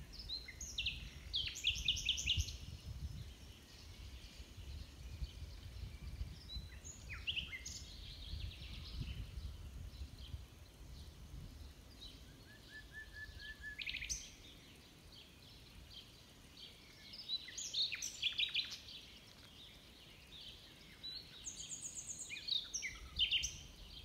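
Songbirds singing in the trees: about five separate song phrases of quick, high trilled notes, a few seconds apart.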